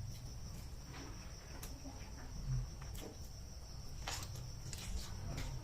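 Close-miked mouth sounds of someone eating pork ribs and rice: scattered wet chewing clicks and lip smacks, the sharpest about four seconds in, over a steady high-pitched tone.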